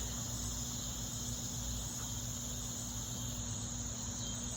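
Steady, unbroken high-pitched chorus of insects, crickets or similar, over a low steady hum.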